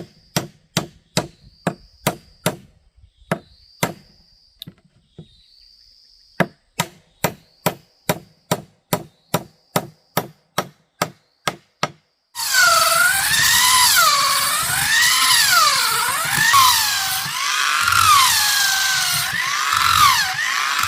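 Steady strikes on wood, about two to three a second, with a short pause around the fifth second. About twelve seconds in, a power tool starts up loudly and runs with its motor pitch wavering up and down as it cuts.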